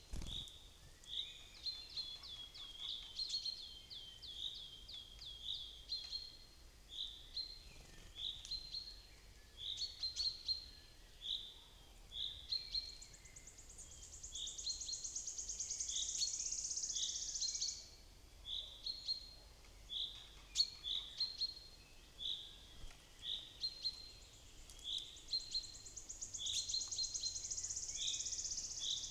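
Wild songbirds calling in woodland: a short high note repeated about once a second throughout, a quick run of notes early on, and two long high trills of about four seconds each, one in the middle and one near the end.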